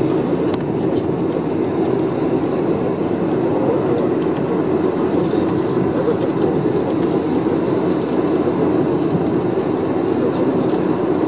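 Steady low rumble inside the passenger cabin of a Boeing 747-400, the jet's engines and airframe heard through the cabin walls, holding an even level and pitch throughout.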